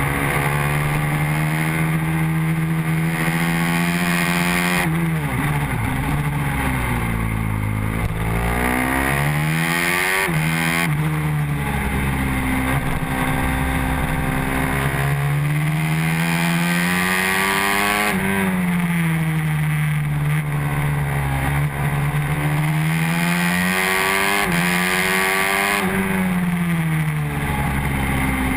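Honda NSF150R race motorcycle's engine at high revs, heard onboard with wind rush. The pitch climbs as it pulls hard out of the corners and drops sharply about four times under braking and downshifts.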